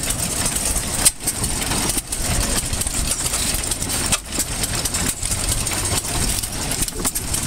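Antique stationary gasoline engines running, a steady mechanical chugging with a sharp click about a second in.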